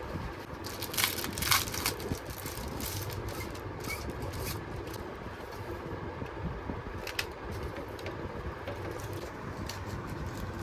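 A steady low rumble with a few sharp clicks and scrapes, the loudest about a second and a half in and another near seven seconds.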